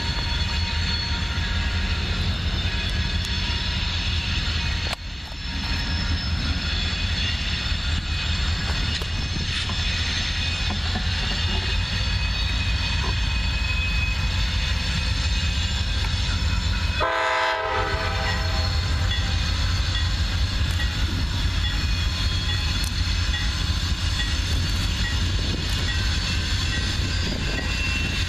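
Approaching CSX freight train's diesel locomotives heard from a distance as a steady low rumble, with one short horn note about 17 seconds in.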